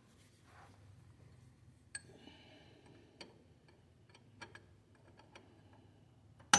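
A few faint, scattered metal clicks and ticks as a punch is set against the tractor's front drive shaft. Near the end comes one sharp hammer strike on the punch.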